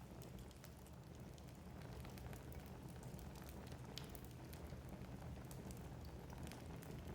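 Wood logs burning in a fireplace: a low steady rumble of the flames with frequent small crackles and pops, one sharper snap about four seconds in.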